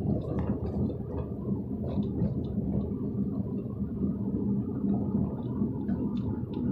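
Car driving along a road, heard from inside the cabin: a steady low rumble of tyres and engine with a faint steady hum and a few light ticks.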